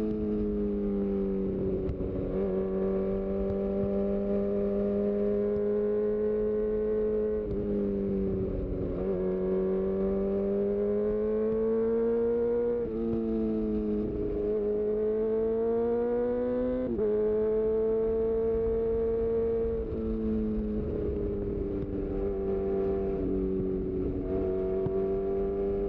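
2018 Honda CB1000R's inline-four engine through a full-system Black Widow exhaust, pulling through the gears on the road. The pitch climbs steadily, then steps abruptly at each quickshifter or auto-blipper gear change, several times over.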